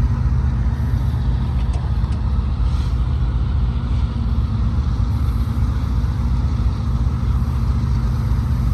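A large engine idling steadily, a low even rumble with no change in speed.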